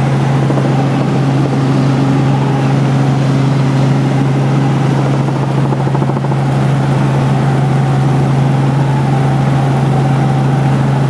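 Helicopter in flight heard from on board: a steady, loud drone of engine and rotor with a strong low hum.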